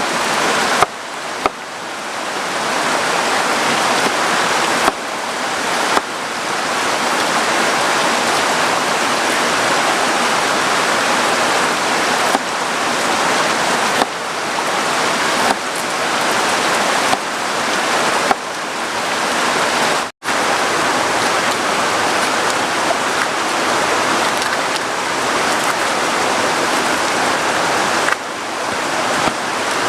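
Heavy rain pouring down, a dense steady hiss, with a few abrupt jumps in level and one split-second dropout about two-thirds of the way through.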